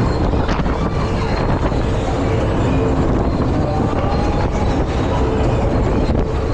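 Funfair thrill ride running, heard from on board: a loud, steady rumble of the ride in motion.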